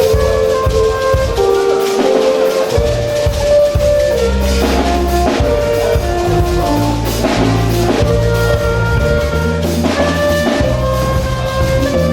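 Church band music: held melody notes over a bass line and a drum kit beat, with the bass dropping out briefly and coming back strongly a little under three seconds in.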